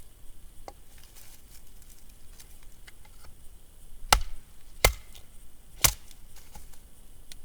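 Three sharp blows into a dense log while splitting firewood, about four seconds in, then roughly one and one second apart.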